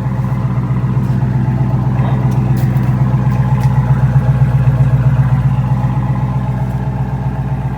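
A car's 8-cylinder Hemi engine running at idle: a steady, pulsing low hum that swells slightly midway.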